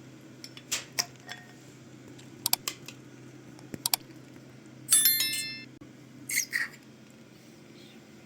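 Spoons and dishes clinking in a scatter of short, sharp knocks, with one louder ringing clink about five seconds in, over a steady low hum.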